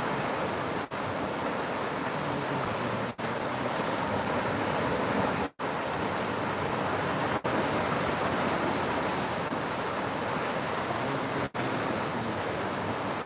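River water rushing steadily, broken by a few momentary dropouts.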